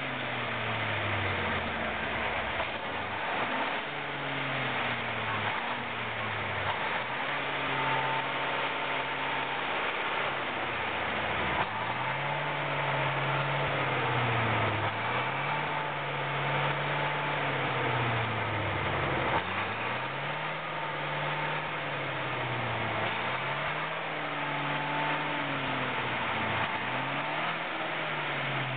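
KrAZ-255B truck's YaMZ-238 V8 diesel running. Its speed rises, holds and drops again about eight times, every few seconds, as it revs up and comes back down.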